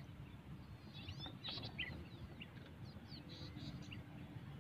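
Several birds chirping: short, high calls dotted through, faint.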